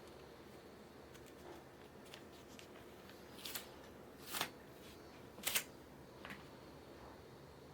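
Short scratchy rustles over a faint room hiss, with three louder ones about a second apart after the middle.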